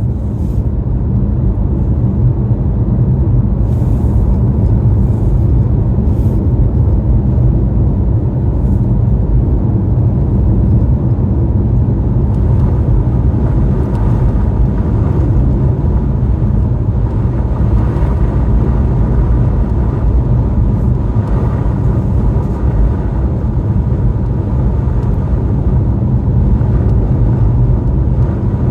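Car driving: a steady, loud, low rumble of engine, road and wind noise, with a few faint clicks near the start.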